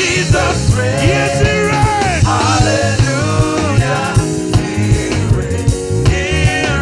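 Upbeat gospel praise-and-worship song: voices singing over a full band with drums keeping a steady beat.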